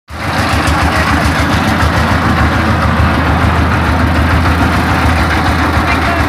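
Dump truck's diesel engine idling steadily, a deep even drone.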